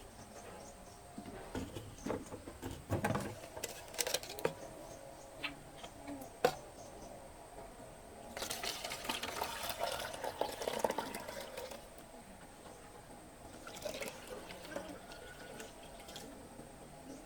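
Liquid pouring and splashing, steadiest for a few seconds in the middle, among scattered knocks and clinks of things being handled.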